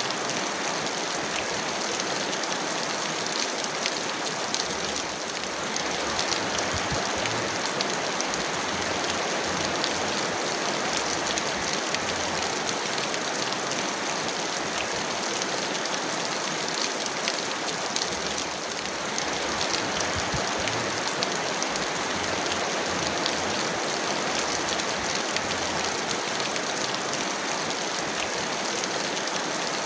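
Heavy rain falling steadily: a dense, even hiss with many fine drop ticks.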